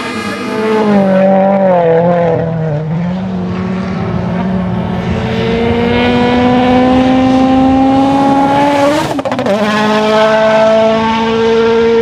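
Rally car engine held at high revs. About a second in, its pitch wavers and dips for a couple of seconds, then climbs steadily for several seconds under acceleration. It breaks off abruptly about three-quarters of the way through and settles into a higher, steady note.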